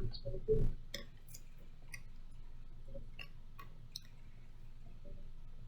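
Faint, scattered clicks and light taps of a sheet of drawing paper being taped down to a desk, about six in all.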